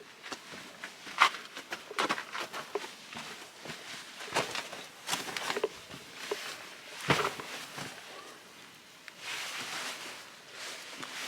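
Footsteps on a dirt hiking trail: irregular crunching steps, a few a second, with a short stretch of rushing noise about nine seconds in.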